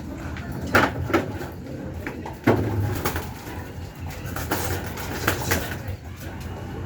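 Pigeons cooing, with a handful of sharp clicks and knocks scattered through, the loudest at about a second and two and a half seconds in.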